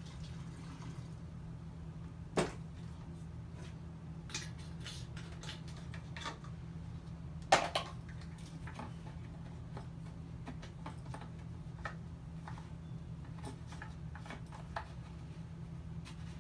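Scattered light clicks and knocks of a chainsaw being handled, with two louder knocks, one a couple of seconds in and one about halfway through, over a steady low hum. The engine is not running.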